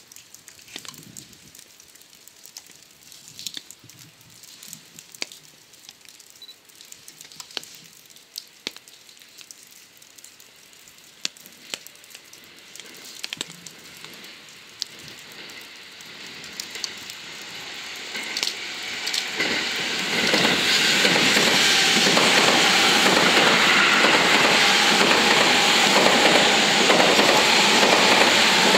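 Rain pattering, with sharp drip clicks, for the first fifteen seconds or so. Then a Seibu 6000-series electric commuter train grows louder as it departs and runs close past, its wheels clattering rhythmically over the rail joints from about twenty seconds on.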